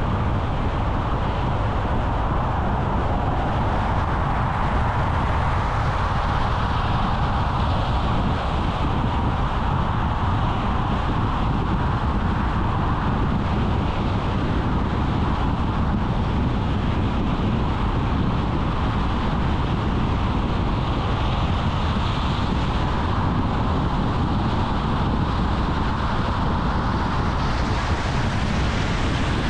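Car driving at steady speed: constant road and wind noise with no changes.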